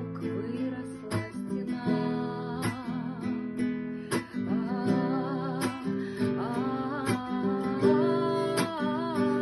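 Acoustic guitar strummed in a steady rhythm, about one strum every three-quarters of a second, with a woman singing a melody with vibrato over it.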